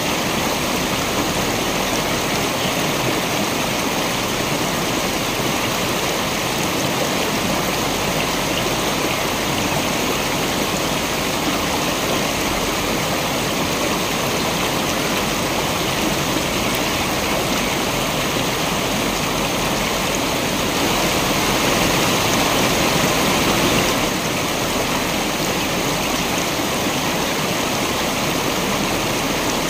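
Waterfall water rushing in a continuous, even wash, swelling slightly louder for a few seconds about two-thirds of the way through.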